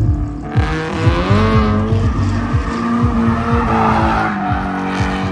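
Drift car engine held high in revs with tyres squealing as it slides; the engine note climbs about a second in, holds steady, then drops back near the end.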